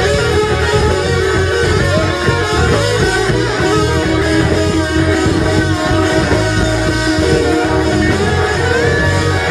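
Live rock band playing loudly: distorted electric guitars over bass and drums, with a sung or lead-guitar line weaving above.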